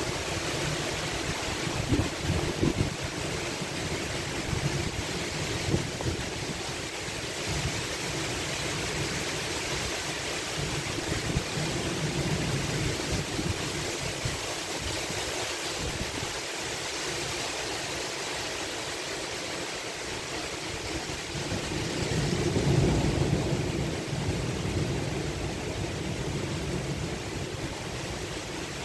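Torrential thunderstorm rain, a steady hiss, with gusts of downburst wind buffeting the microphone in low rumbles and a louder swell about three quarters of the way through.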